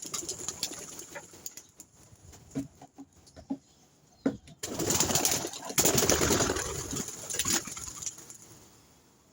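Pigeons stirring: a few scattered clicks and knocks, then a loud burst of wing flapping and rustling about halfway through that fades away.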